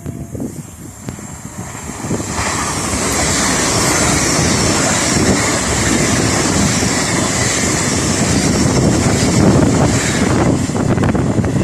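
Train passing at speed, its noise rising sharply about two seconds in and then holding loud and steady, with a strong high hiss.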